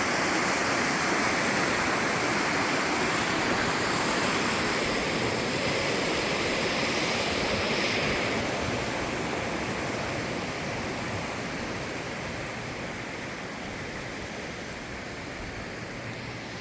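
Flowing stream water rushing steadily, growing gradually quieter over the second half.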